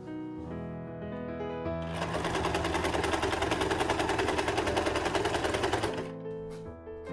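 Electric sewing machine stitching in a fast, even run for about four seconds, starting about two seconds in, over soft background piano music.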